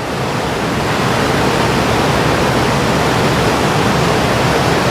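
River rapids rushing: a loud, steady noise of white water.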